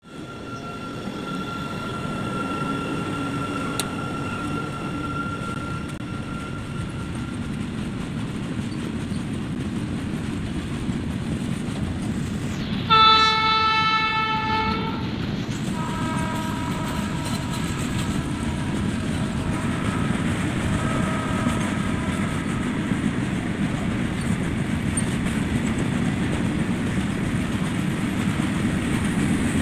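A long freight train of BOXNHL open wagons behind a WAG-12 electric locomotive passing at speed, with a steady rumble and clatter of wheels on the rails. A loud train horn blast about thirteen seconds in lasts about two seconds and is the loudest sound, followed by fainter horn tones for several seconds.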